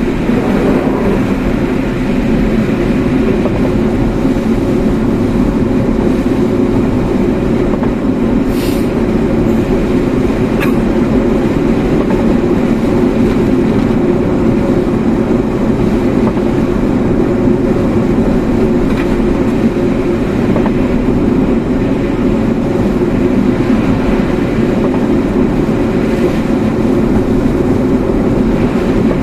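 Steady drone of a car on the move: road and engine noise, even throughout, with a faint click or two partway through.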